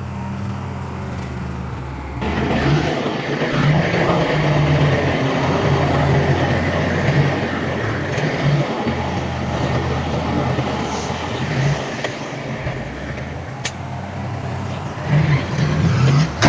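Heavy diesel earthmoving machinery running at work, its engine a steady low drone, with a louder broad rush of mechanical noise coming in about two seconds in and a sharp clank near the end.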